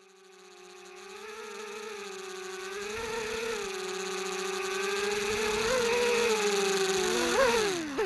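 Small FPV quadcopter's Cobra 2400kv brushless motors and propellers whining, growing louder with the pitch wavering up and down as the throttle changes. Near the end the pitch jumps briefly and then falls steeply as the motors spool down.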